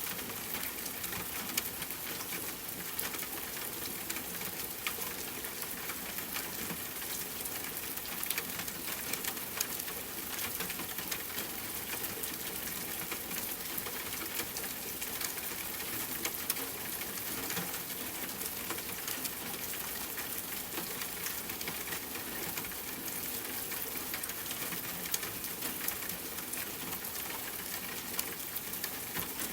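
Steady rain falling with a campfire crackling, heard as an even hiss scattered with small pops and ticks.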